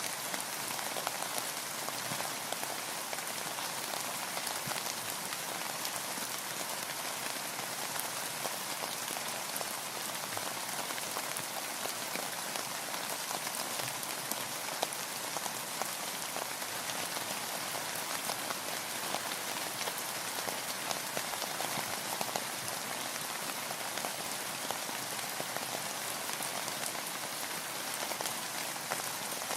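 Steady rain, an even hiss of dense drops with many small distinct drop ticks.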